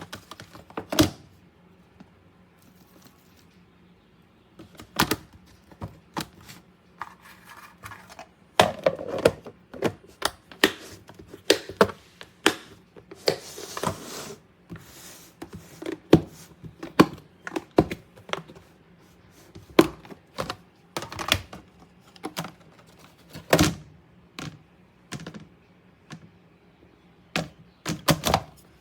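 Hard plastic food storage containers and lids being handled: irregular sharp clicks and knocks, with a brief rustle about halfway through.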